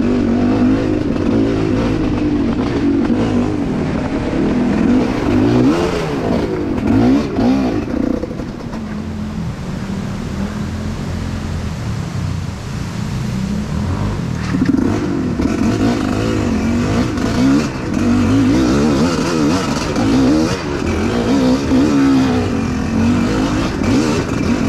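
Off-road motorcycle engine running and revving up and down as it rides, easing off to a lower, quieter run for several seconds around the middle before revving hard again.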